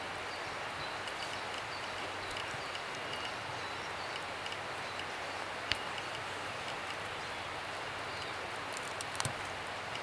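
Steady outdoor background hiss with faint high chirps, broken by a sharp click about halfway through and a couple more near the end.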